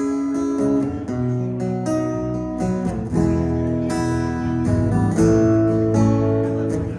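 Guitar strumming a run of chords, a new chord struck about once a second, as the chord changes of a song are shown to other players.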